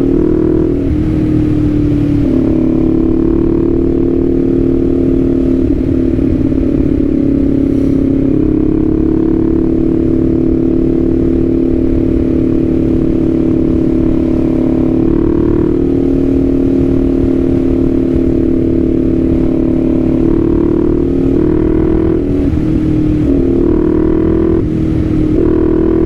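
Kawasaki Z400's parallel-twin engine running under way, its pitch dropping and rising several times as the rider shifts gears and works the throttle. Steady wind rush underneath.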